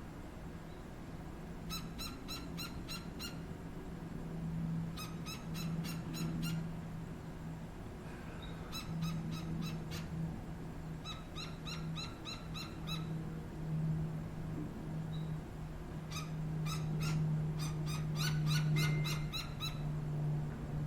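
Gila woodpeckers calling: about six runs of quick, sharp, evenly spaced notes, each run lasting about a second. A low steady hum comes and goes underneath.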